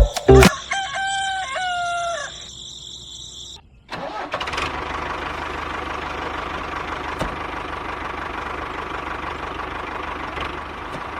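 A brief crowing call with a stepped pitch. Then, from about four seconds in, a small motor starts and runs steadily with a low hum.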